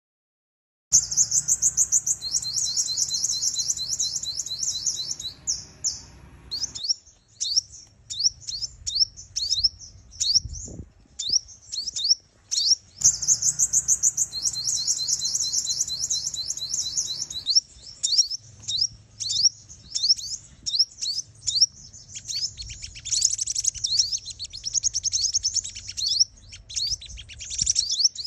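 Female sunbird calling in rapid, high-pitched chirps and trills. Dense runs alternate with scattered single chirps. These are the female calls used as a lure to excite territorial male sunbirds.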